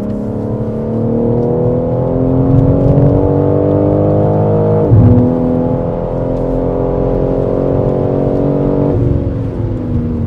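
BMW track car's engine under hard acceleration, heard from inside the cabin, rising in pitch through one gear, then upshifting about five seconds in and climbing again. Near the end the pitch falls as the throttle is lifted.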